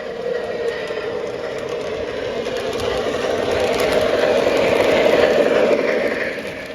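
O gauge model train running along the track, growing louder as it passes close by and then dropping away quickly near the end.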